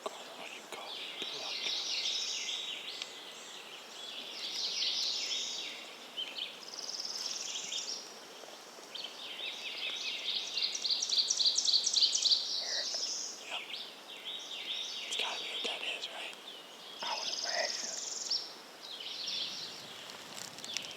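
Songbirds singing, high-pitched phrases following one another every second or two, with a fast trill about halfway through.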